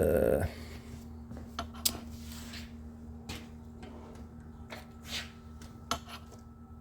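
Light metal clicks and knocks from handling a car door-latch linkage, a loud scrape in the first half second and then a few separate taps spread out, over a faint steady hum.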